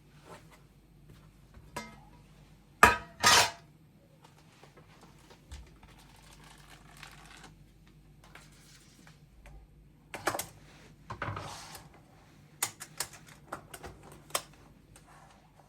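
Kitchen clatter of dishes and cutlery being handled: a loud double clink about three seconds in, then scattered clinks and taps later on, over a faint steady hum.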